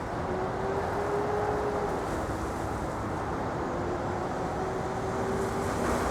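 Steady drone of distant motor engines, with a faint engine tone that wavers slightly in pitch and a second, lower tone joining near the end.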